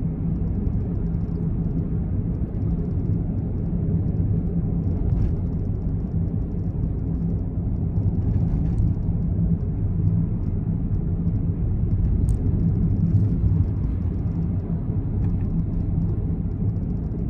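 Steady low rumble of a Honda N-BOX's 658 cc three-cylinder engine running, heard from inside the cabin.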